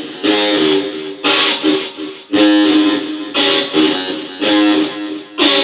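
Guitar playing a blues, strumming chords with a strong stroke about once a second, each chord ringing and fading before the next.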